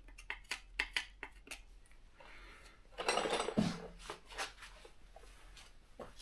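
Hand work on small metal parts: a string of light clicks and clattering taps. About three seconds in there is a louder rustling scrape ending in a dull thump.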